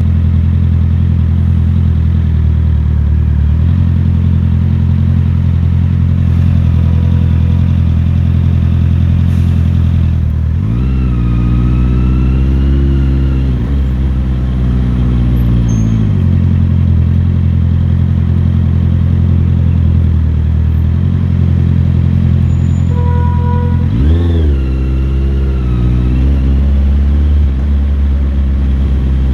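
Motorcycle engine running steadily while riding. The revs rise and fall twice, about ten seconds in and again near the end, as the throttle opens and the gears change.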